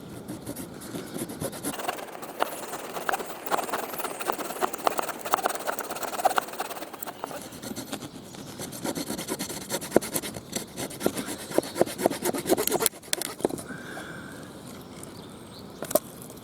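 Pocket-knife folding wood saw (Victorinox Soldier's saw blade) rasping back and forth through a very hard, dense branch in quick strokes, slow going because of the compact wood. The strokes stop about thirteen seconds in, and a sharp click follows near the end.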